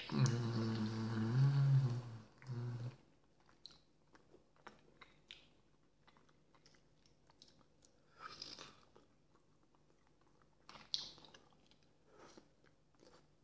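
Close-up chewing of soft boiled potato vareniki with sour cream: wet mouth sounds and small scattered clicks. It opens with a man's voice humming for about two seconds, then a shorter hum.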